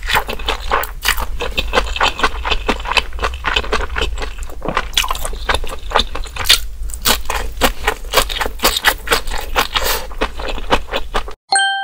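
Close-miked eating sounds: dense wet chewing and mouth clicks and crackles. Near the end they cut off abruptly and a single bell-like ding rings out and fades.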